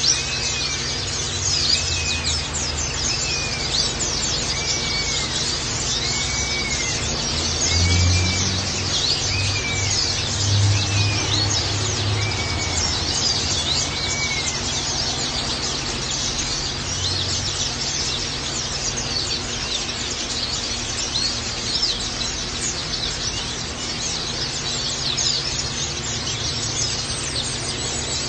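Pleci (white-eyes) twittering: dense, rapid, high-pitched chirping that goes on without a break. A short arched call repeats about once a second through the first half, over a low steady hum.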